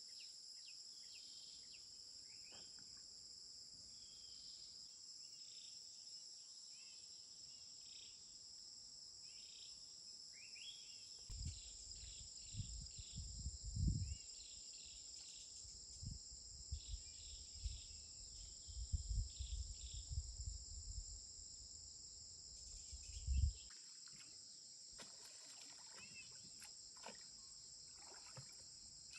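Steady high-pitched insect chorus with scattered bird chirps. From about eleven seconds in to about twenty-three seconds, irregular low thumps and rumbles come and go, the loudest of them near fourteen and twenty-three seconds.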